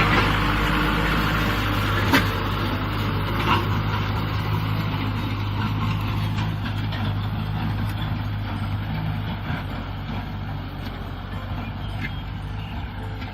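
Kubota M6040 SU tractor's diesel engine running steadily, with a couple of sharp clicks early on, growing gradually quieter toward the end.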